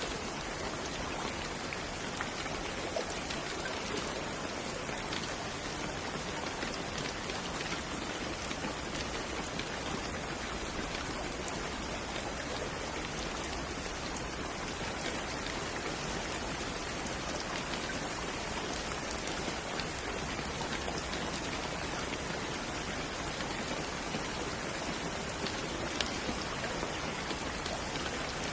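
Steady rain falling, a dense even hiss of drops with many small individual drop ticks on a hard surface.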